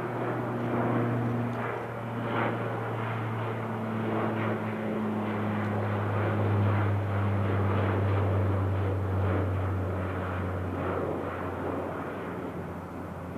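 Bombardier Dash 8 Q400 turboprop, its six-bladed propellers giving a steady low drone over engine noise, the pitch slowly falling.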